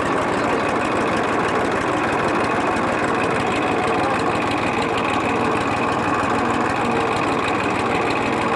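Massey Ferguson tractor's diesel engine running steadily with a fast, even firing beat.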